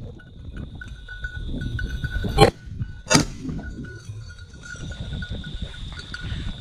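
Two shotgun shots about two-thirds of a second apart, the first the louder. A small bell jingles faintly throughout, typical of a bell on a working bird dog's collar.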